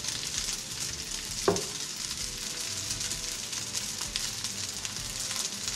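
Rice frying in hot oil in a pan while being stirred: a steady sizzle with fine crackling. About one and a half seconds in, a single sharp clank rings briefly.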